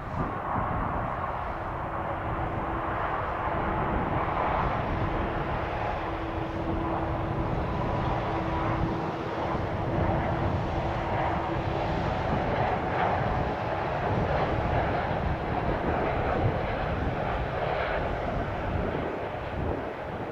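Jet airliner engines, a steady roar with a faint held hum through the first half.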